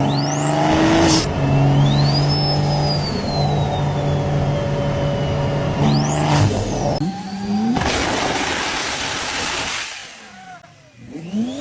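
Turbocharged car engine revving, with a high turbo whistle that rises steeply twice. A long, loud hiss about eight seconds in fits boost being dumped as the throttle closes (turbo flutter or blow-off).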